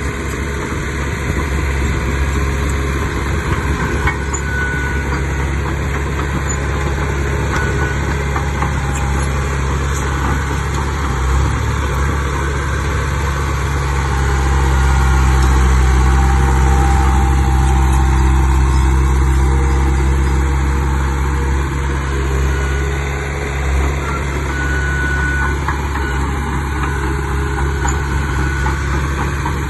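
Heavy diesel engine of earthmoving machinery running steadily, swelling louder for several seconds midway and then easing back.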